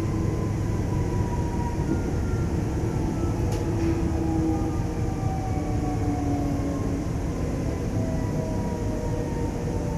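Alstom X'Trapolis electric railcar running, heard from inside the car: a steady rumble of wheels and running gear under several thin motor-drive whines that slowly fall in pitch as the train slows toward the next station. A brief click sounds about three and a half seconds in.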